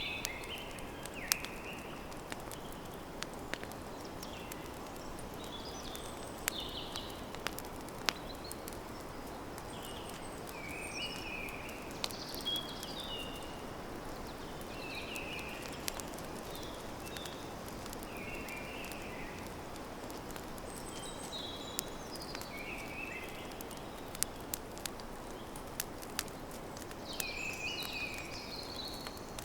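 Campfire burning with a steady low rush and scattered sharp crackles and pops at irregular intervals. Birds chirp in short phrases every few seconds over it, busiest near the end.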